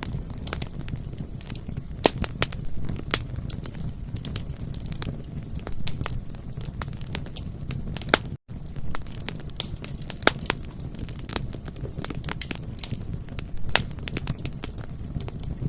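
Bonfire crackling, with irregular sharp pops and snaps of burning wood over a steady low rumble of the flames. The sound cuts out completely for a split second about halfway through.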